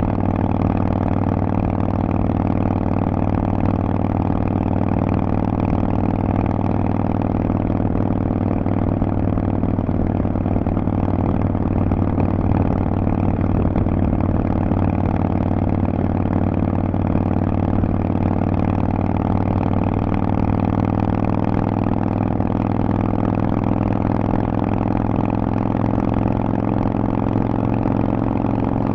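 Harley-Davidson Forty-Eight's air-cooled V-twin running through Vance & Hines exhaust pipes, holding a steady, even pitch throughout.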